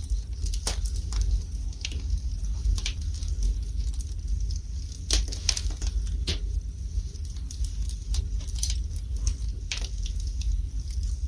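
Fire burning in a fireplace: irregular crackles and sharp pops, the strongest bunched around the middle, over a low steady rumble.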